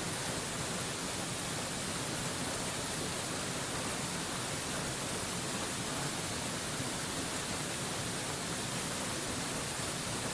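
Steady rushing of a waterfall, heard as an even, unbroken hiss that is brightest in the high end.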